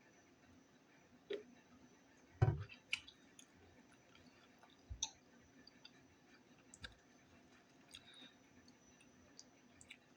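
Close-up eating sounds as a soft taco is chewed: scattered wet mouth clicks and smacks, with a louder thump about two and a half seconds in.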